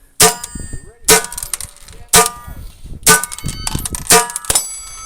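.22 rimfire gunshots fired one at a time, about once a second, five in a row, each followed by the ringing clang of a struck steel target plate.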